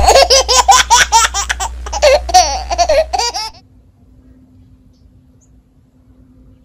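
A talking baby doll's voice box giving out baby laughter and babbling, which stops abruptly about three and a half seconds in. A faint steady hum follows.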